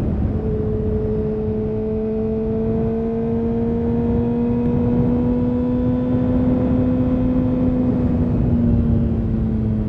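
2000 Honda CBR929RR Fireblade's inline-four through an Erion full racing exhaust, pulling at an almost steady pitch that climbs slowly and then drops off about eight seconds in as the throttle eases.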